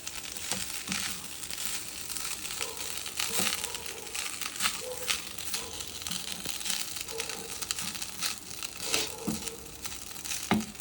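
Chicken fried rice being stirred and mixed in a hot pan: irregular scrapes and clicks over a faint sizzle.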